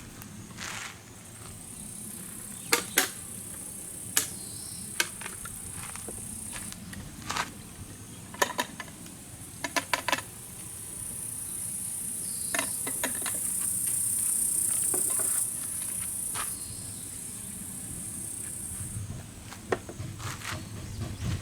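Insects, likely crickets, keep up a steady high-pitched drone that swells louder through the middle, while scattered sharp clicks and snaps, some in quick little clusters, come and go.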